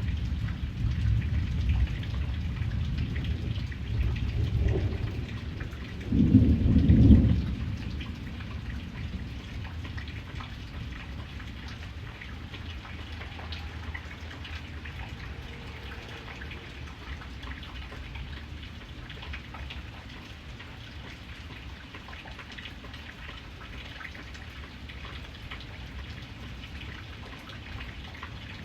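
Steady rain with rolling thunder: a low rumble in the first few seconds swells to a loud peal about six seconds in, then dies away, leaving the rain alone.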